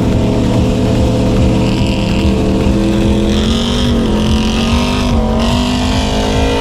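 Pickup truck engine pulling hard under the load of a towed trailer, its note climbing slowly and steadily, with a rushing hiss over it.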